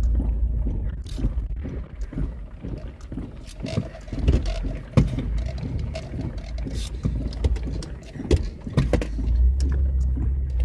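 Pickup truck driving through deep flood water: water sloshes and splashes against the wheels and underbody over the steady low hum of the engine, with two sharp thuds of water about four and five seconds in.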